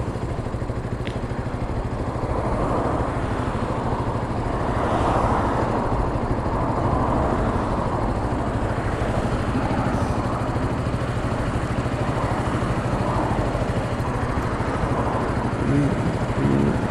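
KTM RC sportbike's single-cylinder engine idling steadily, with road traffic passing across the junction and swelling a few seconds in.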